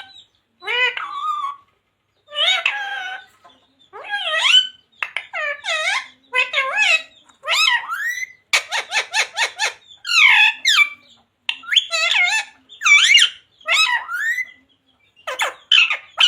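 Green parrot calling in a string of short, high-pitched squawks and whistles that glide up and down in pitch, with a fast chattering run about halfway through.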